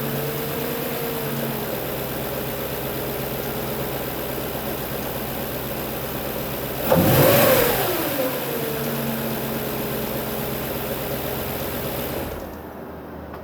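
Audi S4's 4.2-litre V8 idling steadily on a cold morning start, with one quick throttle blip about seven seconds in that rises and falls in pitch. Near the end the engine is switched off and the running sound stops.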